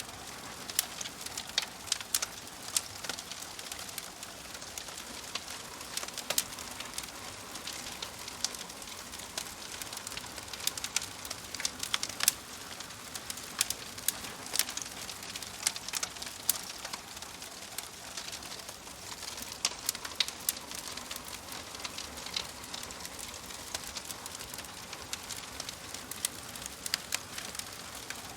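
Fireplace fire crackling: a steady hiss with frequent, irregular sharp pops and snaps.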